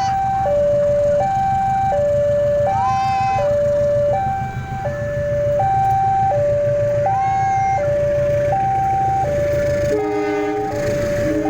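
A two-tone hi-lo warning siren alternating steadily between a higher and a lower note, each held for under a second, over a steady low rumble. A second warning sound with lower notes joins near the end.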